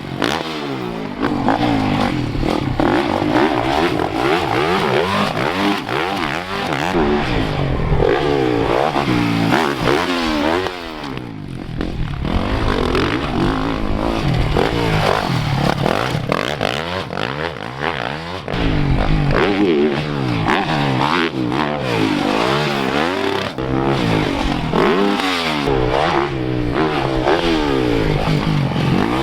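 Dirt bike engine being ridden hard, revving up and down over and over, its pitch repeatedly climbing and dropping through the gears, with brief let-offs about eleven and eighteen seconds in.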